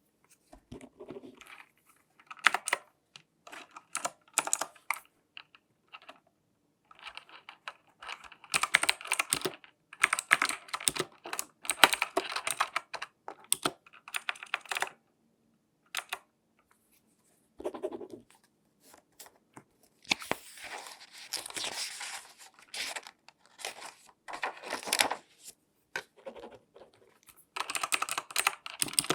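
Close-miked hands handling objects: quick clicks and taps mixed with scratchy rustling, coming in bursts with brief silent pauses between them.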